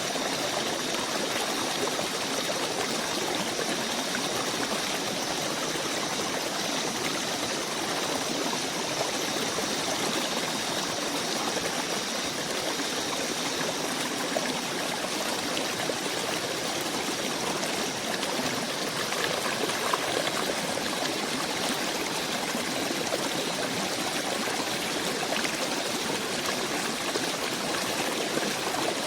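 A stream of running water, flowing steadily without a break.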